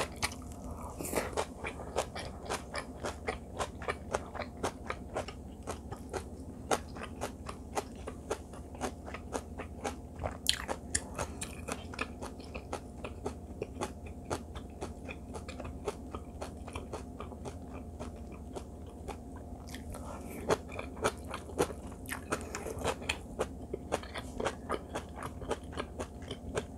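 A person chewing a mouthful of rice mixed with seasoned greens close to a clip-on microphone: a steady run of moist, crunchy mouth clicks, several a second.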